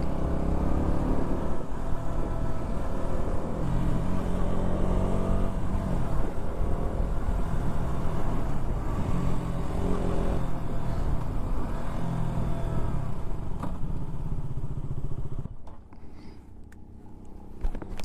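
Motorcycle engine running on the move, its revs climbing and dropping again and again. The engine sound falls away sharply near the end.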